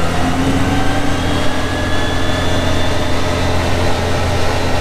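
CFMoto UForce 1000 side-by-side's V-twin engine and CVT running under way, its whine rising gently in pitch over the first two seconds or so, then holding steady.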